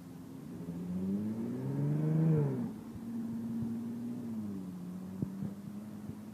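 Tram's electric traction motors whining as it moves off: the pitch rises for about a second and a half, drops back, then holds a steady hum that steps lower about four seconds in, with a few light clicks later on.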